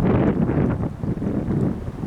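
Windstorm gusts buffeting the microphone: a low, rumbling rush of wind that swells and eases, dipping briefly about a second in and again near the end.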